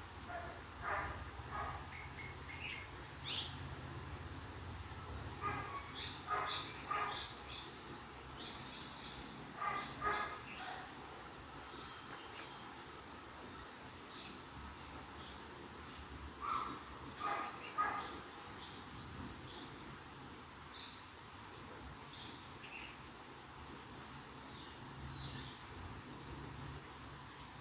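Birds calling in scattered clusters of short chirps, loudest around a third of the way in and again past the middle, over a steady high-pitched hum.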